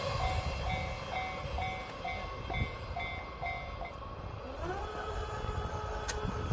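Rumble of a freight train of container wagons fading after it passes. Over it, a railway level-crossing bell rings about twice a second and stops about four seconds in. A steady tone then rises and holds near the end.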